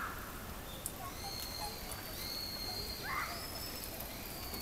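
Birds calling: a series of thin, high, drawn-out notes, each slightly falling, with one brief lower call about three seconds in, over a steady low background rumble.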